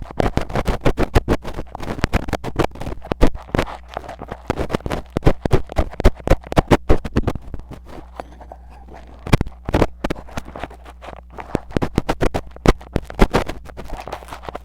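Metal ear pick scratching and scraping hard and fast on a mini microphone in ear-cleaning ASMR: quick strokes in close succession, with a brief quieter lull about eight seconds in.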